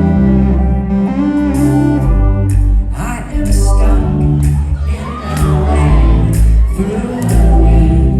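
Live pop band playing a song's instrumental intro through a hall's PA: sustained low string-like bass tones, with drum and cymbal hits coming in about two and a half seconds in.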